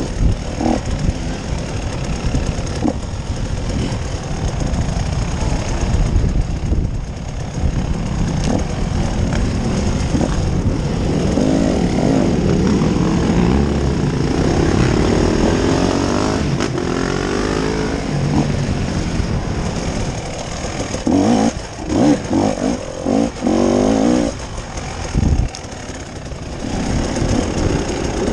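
Off-road vehicle engine running on a rough trail, its pitch rising and falling with the throttle, over a heavy low rumble. In the latter part it comes in short, choppy loud spurts.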